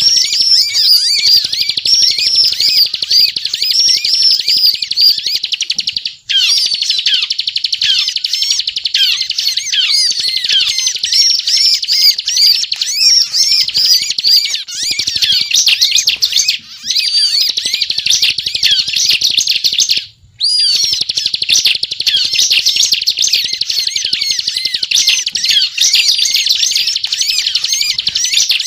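Bar-winged prinia (ciblek) singing in full voice: long runs of rapid, high chattering notes with only brief breaks, about 6, 17 and 20 seconds in.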